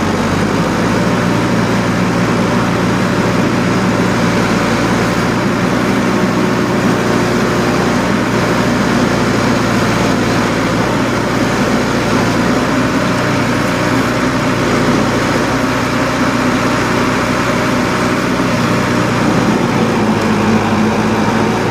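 Tractor-mounted pile drill running: a heavy engine drones steadily at a constant pitch.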